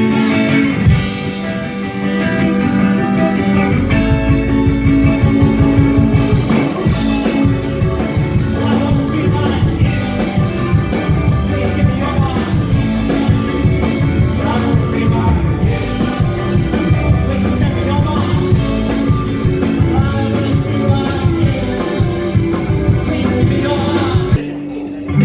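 Live rock band playing a song: guitars, bass and drums, getting fuller about four seconds in and stopping abruptly near the end.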